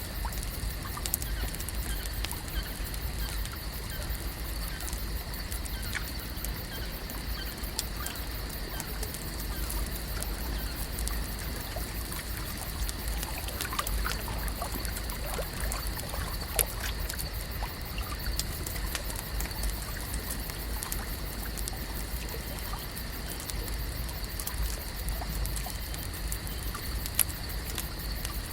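Lake nature ambience: a steady wash of water sound over a low rumble, with a constant thin high tone and scattered small ticks and faint chirps.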